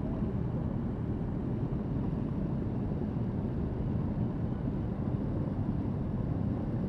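A group of motorcycle engines idling and running at low speed: a steady low drone with no single event standing out.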